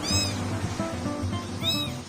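Two short, high-pitched kitten mews, one at the start and one near the end, each rising and falling in pitch, over background music.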